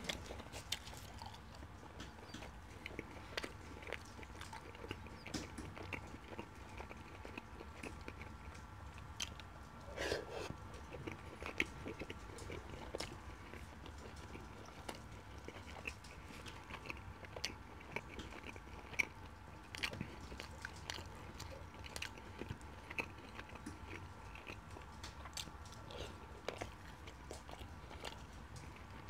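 Close-miked chewing and wet mouth sounds of someone eating chicken curry with flatbread by hand: many small scattered clicks and smacks, over a faint steady hum.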